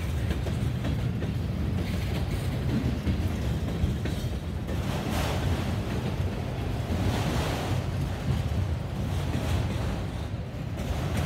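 Freight cars of a CSX train (tank cars, covered hoppers and autoracks) rolling past close by, a steady low rumble of wheels on rail that swells a few times, with wind buffeting the microphone.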